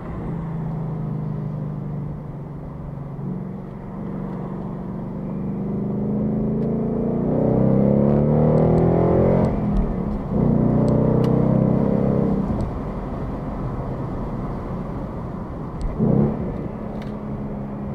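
Ford Mustang GT's V8 engine under way. About six seconds in it pulls hard with the pitch rising, drops off briefly for a gear change and pulls again, then settles back to a steady cruise, with a short rev near the end.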